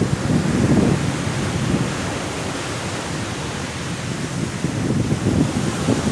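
Sea waves washing ashore in a strong wind: a continuous low rushing that swells in the first second or so, eases through the middle and builds again near the end.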